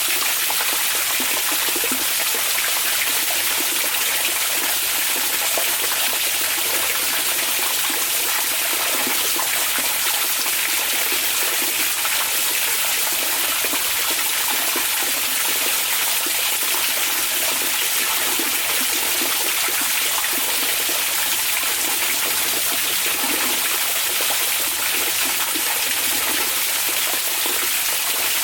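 Hot spring water pouring and trickling steadily into a bath, an even, unbroken rush of water.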